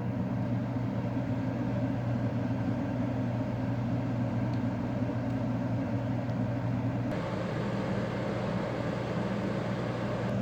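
LG window air conditioner running after its thermostat has switched it on: a steady compressor hum under the rush of the fan. The fan noise grows louder about seven seconds in.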